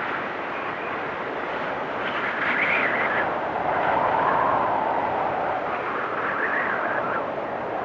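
Blizzard wind blowing in gusts: a steady rushing with a howling whistle that rises and falls, swelling a few times.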